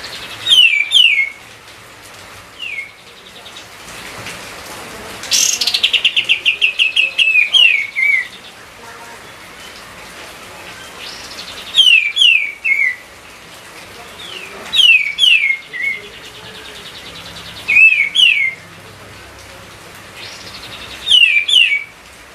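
Kapas tembak songbird singing close up: short loud phrases of two or three quick falling whistled notes, repeated about every three seconds, with one longer fast rattling trill about five seconds in.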